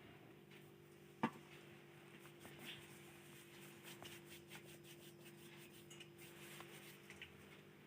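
Near silence: a faint steady hum with scattered light ticks and one sharp click about a second in.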